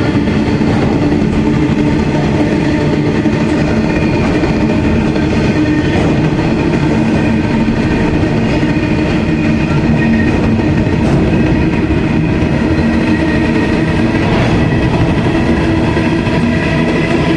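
Train rolling past at close range: a steady, loud rumble of wheels on rail with a few sustained ringing squeal tones over it, unbroken throughout.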